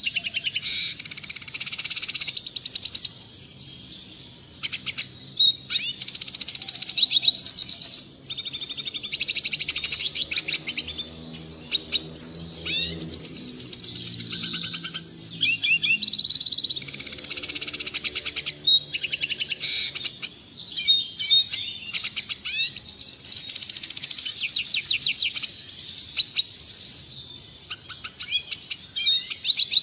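Red siskin singing: long runs of fast, twittering trills and chirps broken by short pauses, clearly recorded.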